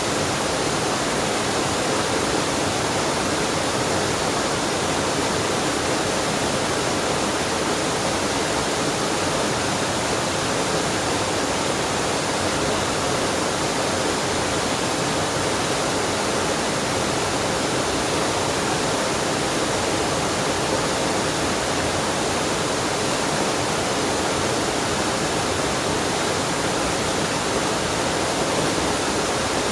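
Water from a waterfall and mountain stream rushing and splashing in an even, unbroken hiss.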